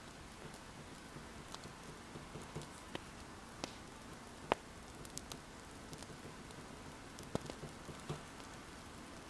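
Wood fire crackling: scattered sharp pops over a steady low hiss, the loudest pop about halfway through.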